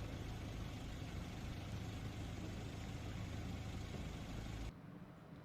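Steady low rumble with hiss, cutting off abruptly near the end.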